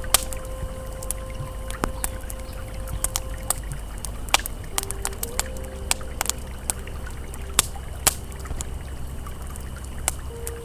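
Campfire crackling with frequent sharp, irregular pops over a steady low rush of flowing river water, with a few soft, held ambient music tones.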